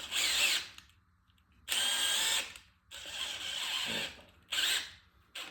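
A hand power drill runs in about four short bursts, stopping and starting, as it bores a timing-guide pin hole through a drill jig into a Ford 4.6 Teksid aluminium engine block. The worn drill's chuck is slipping on the bit, so the drilling goes in fits and starts.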